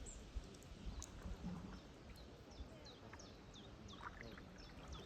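Small birds chirping: a busy series of short, high notes, each falling in pitch, thickest in the middle of the stretch, over a faint low rumble.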